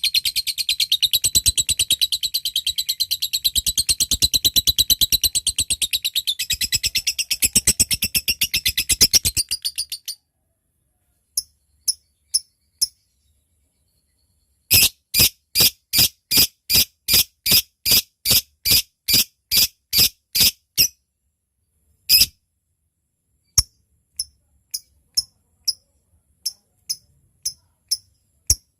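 Lovebird calling: a long, rapid chattering trill (the 'ngekek') for about the first ten seconds. Then, after a short pause, comes a run of single sharp chips at about two a second (the 'ngetik' ticking call), and after that scattered single chips.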